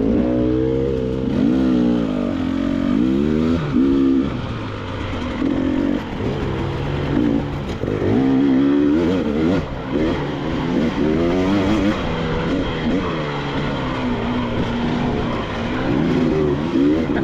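KTM 300 XC-W two-stroke dirt bike engine running under constant throttle changes, its pitch rising and falling every second or two as it is revved on and off through rough terrain.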